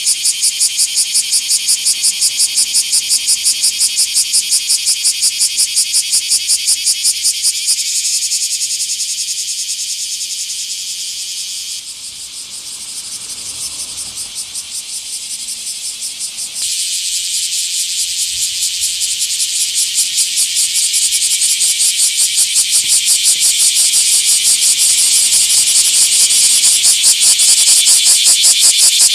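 Bear cicada (Cryptotympana facialis) singing: a loud, rapidly pulsing high buzz. About 8 s in it turns to a smoother, fading drone and dips quieter for a few seconds. Then the pulsed buzz comes back suddenly and grows louder toward the end.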